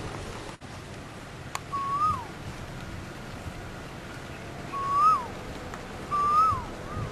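A bird calling three times, a few seconds apart. Each call is a clear whistled note that holds, lifts briefly and then drops away. There is a single sharp click about a second and a half in.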